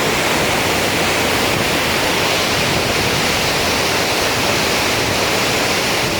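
Loud, steady rush of falling water, like a flooded spillway pouring over its drops.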